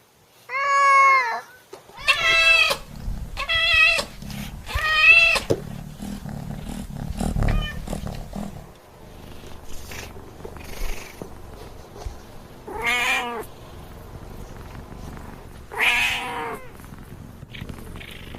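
Domestic cat meowing: four meows in quick succession, then two more spaced about three seconds apart. A low rumble runs under the early meows for a few seconds.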